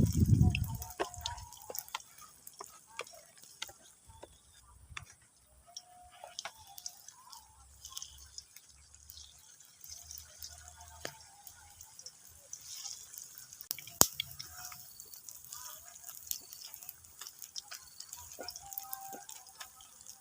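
Water dripping in scattered drops, with light clicks between them and one sharp click about 14 seconds in.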